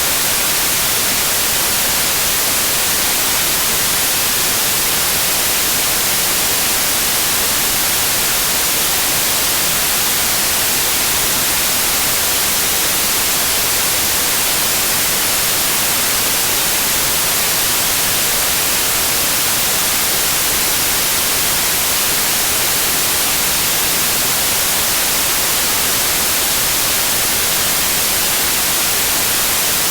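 Steady white noise: an even hiss across all pitches, strongest in the highs, unchanging throughout.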